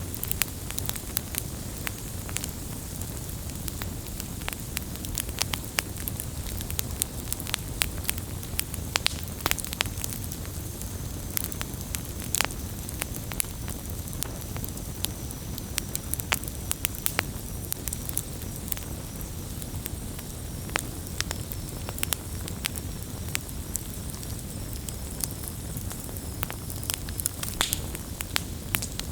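Wood campfire burning, with frequent irregular sharp crackles and pops over a low, steady rush of the flames.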